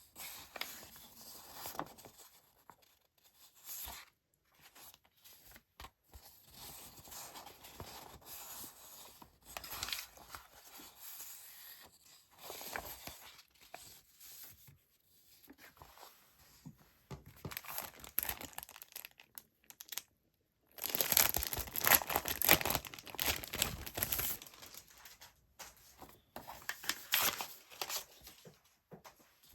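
Paper decorating items and their packaging handled close to the microphone: intermittent rustling and crinkling, with a louder stretch of tearing and crinkling about twenty-one seconds in that lasts a few seconds.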